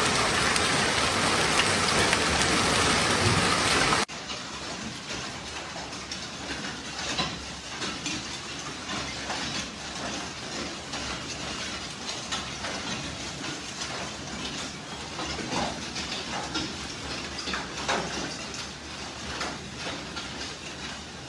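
Rain with hail: a heavy steady downpour that drops off suddenly about four seconds in, leaving lighter rain with hailstones clattering as many scattered sharp knocks.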